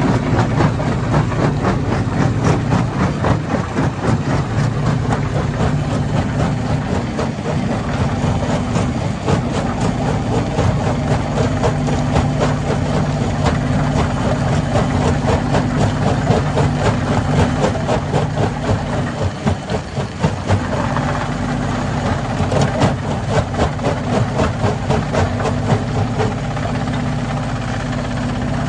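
Hammer stone crusher running under load: a steady heavy machine drone with a constant fast clatter of knocks as rock is broken, easing briefly about two-thirds of the way through.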